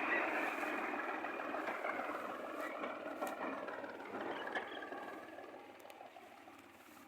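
Tractor engine running, its sound fading steadily over several seconds.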